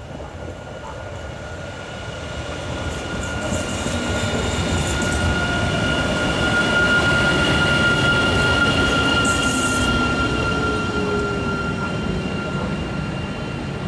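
Protos electric multiple unit passing at close range: wheels running on the rails with a steady high tone over the rumble. It grows louder to a peak around the middle as the carriages go by, then fades, with a few brief high hisses along the way.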